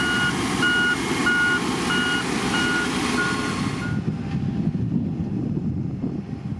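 Reverse alarm on a heavy diesel machine, most likely the motor grader, beeping about one and a half times a second over the steady running of its diesel engine. The beeping stops about four seconds in and the engine keeps running.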